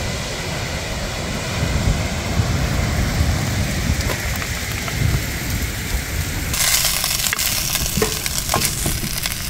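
A low, steady outdoor rumble of wind and sea runs through most of the clip. About two-thirds of the way in it gives way to sliced turkey sizzling in a nonstick frying pan, with a wooden spoon scraping and clicking as the pieces are stirred.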